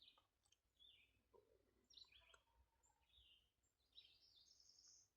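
Faint songbird chirps and short trills in near silence, with one longer high trill toward the end.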